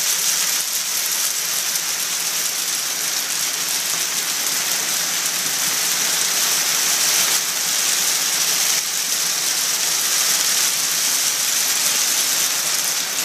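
Heavy rain from a summer squall pouring down, a loud, steady, even hiss.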